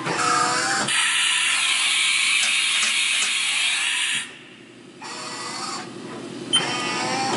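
Haas VF-2 vertical machining center making an automatic tool change. A spindle whine opens it, then comes a loud hiss for about three seconds, the air blast as the tool is released from the spindle. After a quieter spell, a click near the end and the whine starts again.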